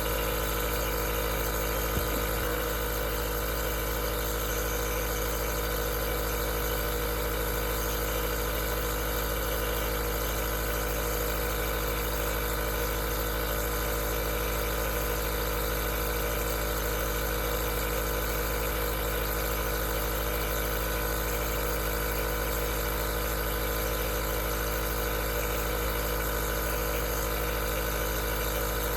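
Aerosol nebulizer running: a steady motor hum with a fixed, buzzing pitch that does not change.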